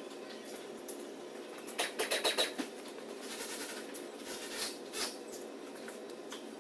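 Light clicking and tapping of hand tools on engine parts: a quick run of about six clicks in under a second, about two seconds in, and a single click later. A steady low hum runs underneath.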